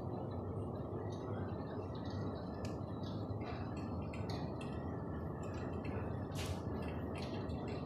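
Electric fireplace with irregular faint crackles and ticks, a few to several a second, over a steady low hiss.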